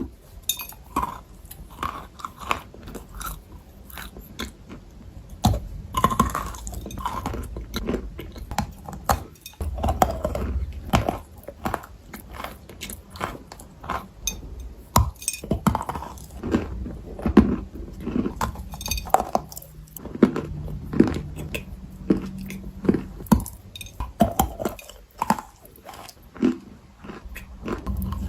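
Close-up chewing and crunching of food, with irregular crisp crackles and bites throughout.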